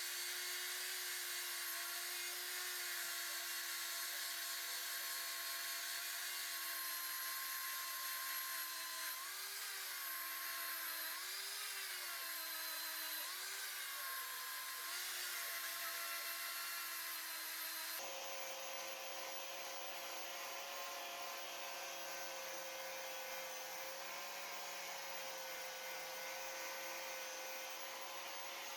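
An electric power tool's motor running with a steady whine, its pitch rising and dipping three or four times about a third of the way in. About two-thirds in, it switches abruptly to a different, higher steady whine.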